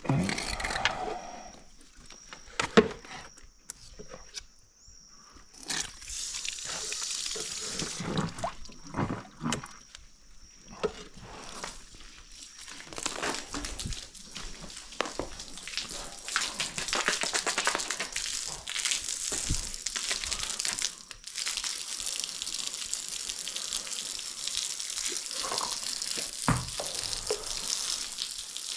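A horse being bathed with water sprayed from a hose, an uneven hiss that starts about six seconds in and keeps going. Before the spray starts there are a few sharp knocks and thuds, with a faint steady high tone behind them.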